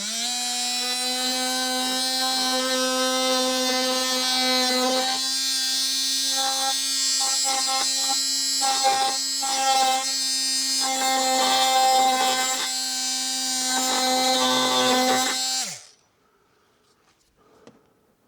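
A small handheld electric power tool spins up and runs at a steady pitch for about fifteen seconds while trimming the edge of a cut-out. Its note roughens and wavers while it bites into the material in the middle, then it winds down and stops near the end.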